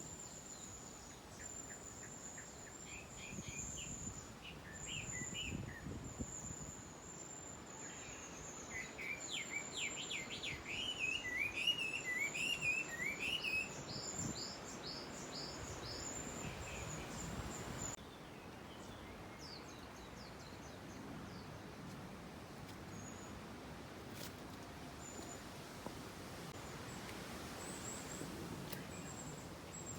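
Wild birds chirping and singing, busiest and loudest around the middle with a quick run of rising and falling notes, over a thin, high-pitched string of repeated notes; the calls thin out after about two-thirds of the way through.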